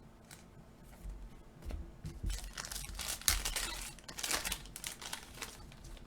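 A trading-card pack wrapper being torn open and crinkled by hand, with a run of louder rips and crackles in the middle.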